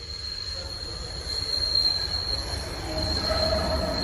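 PATCO Speedline train arriving, its wheels squealing on the rails with a steady high-pitched tone over a rumble that grows louder. A lower squeal tone joins about three seconds in.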